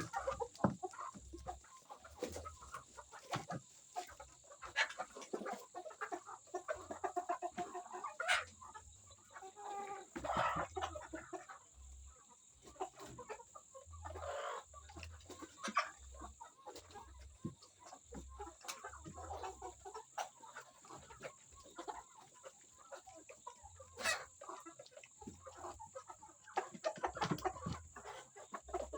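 A flock of young Sasso and Plymouth Rock chickens clucking and calling in short irregular bursts, with sharp clicks and pecking sounds among them.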